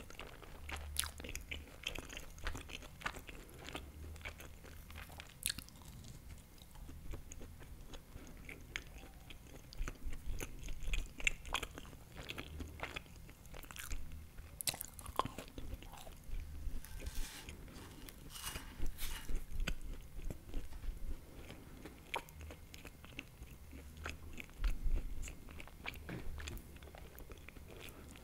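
A person chewing and biting into baked empanada right at a close microphone: wet mouth sounds with many short, irregular clicks and crunches throughout.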